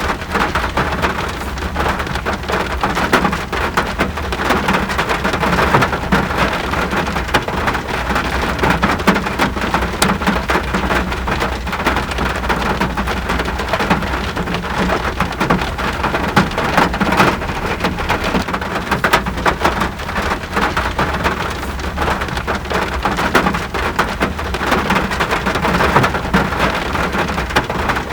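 Steady rain: a dense, even patter of countless drops over a constant low rumble.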